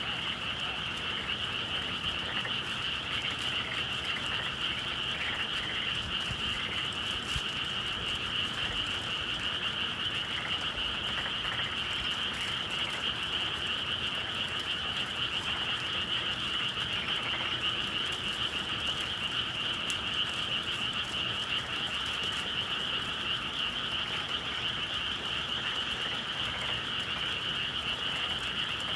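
A dense chorus of many frogs calling together without a break, steady in level.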